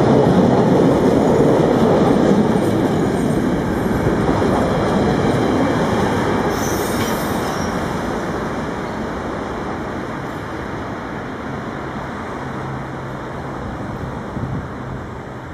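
A train running past on the rails and moving away, its wheel and rail rumble loud at first and fading steadily. A brief high-pitched sound comes about seven seconds in.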